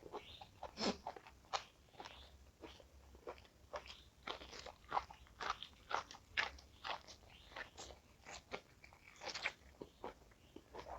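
Close-miked, open-mouthed crunching: a person biting and chewing crisp food in a quick, irregular run of sharp crunches, about two or three a second.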